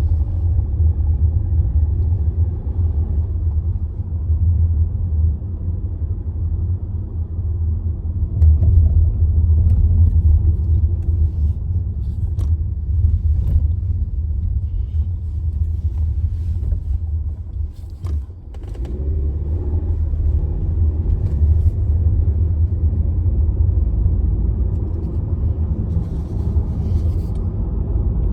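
Car engine running with a deep, steady rumble. It dips briefly about two-thirds of the way through, then picks back up. A few light clicks sound over it.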